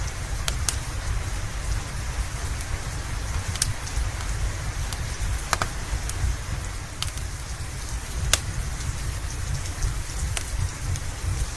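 Steady rain with a low rumble underneath, and scattered sharp pops from a crackling log fire.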